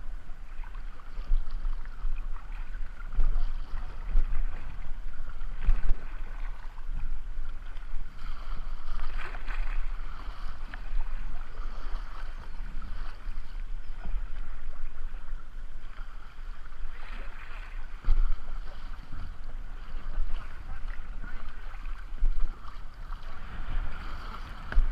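Kayak paddling on a river: water rushing and splashing around the boat and paddle, with irregular knocks, over a steady low rumble of wind on the microphone.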